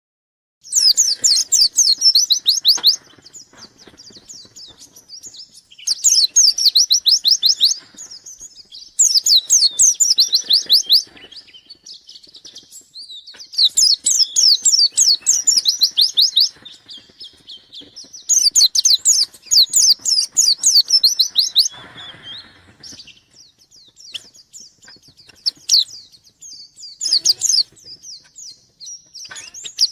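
A white-eye (pleci) singing vigorously in repeated bouts of rapid, high twittering trills, each two to three seconds long with short pauses between. This is the full, persistent 'gacor' song that keepers take as a bird in the mood to challenge a rival.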